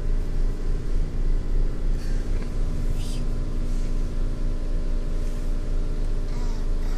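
High-pressure water jets of a touchless automatic car wash spraying the car, heard from inside the cabin: a steady low rumble with a machine hum and a few brief hisses of spray.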